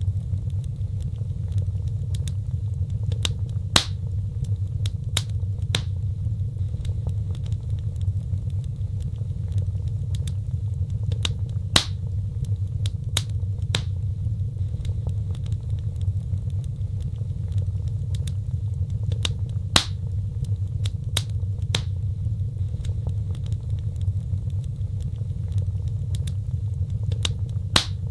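Wood fire burning in a fireplace: scattered sharp crackles and a few louder pops over a steady low rumble of flames.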